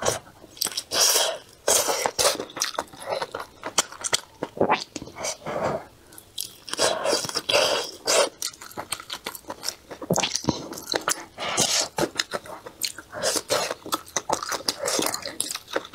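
Close-miked chewing and biting of food, with wet, crackly mouth sounds in irregular bursts.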